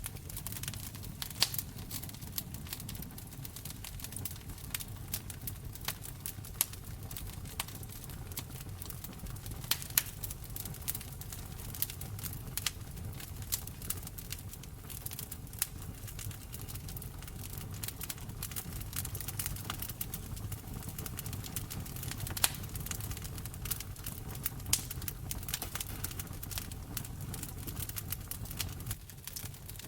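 Wood fire crackling in a fireplace: frequent irregular pops and snaps, a few sharply louder, over a steady low rumble of the flames.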